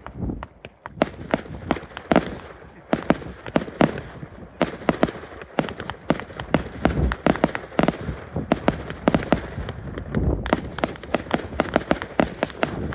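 Fireworks display: rapid crackling bangs from exploding shells, several a second, over a continuous rumble, with deeper booms about seven and ten seconds in.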